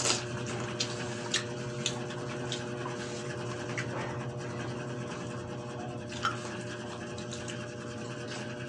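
People chewing juicy pineapple chunks: wet mouth sounds with a few soft smacks and clicks, over a steady low hum.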